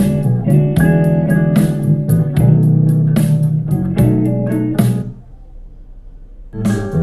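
Guitar-led music with drums and bass played back through a portable Bluetooth speaker. It drops out about five seconds in and comes back about a second and a half later.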